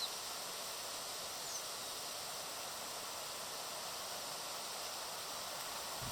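Steady outdoor hiss of wind and rustling leaves, with two brief, faint high bird chirps: one at the start and one about a second and a half in.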